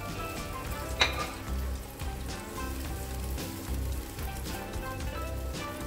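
Curry masala of tomato purée, onion and ground spices sizzling in hot oil in a frying pan on high heat as it is stirred and fried (bhuna) with a silicone spatula, with one sharp knock about a second in. Background music with steady tones and a low beat plays throughout.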